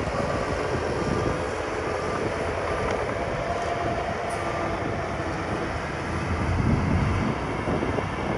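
Heavy earthmoving machinery running, a diesel engine's din with clanking, while a reversing alarm beeps at an even pace through the first half and then stops.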